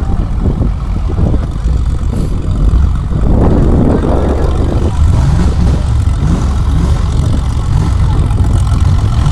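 Off-road 4x4 engine running hard and loud, with repeated short revs rising in pitch in the second half.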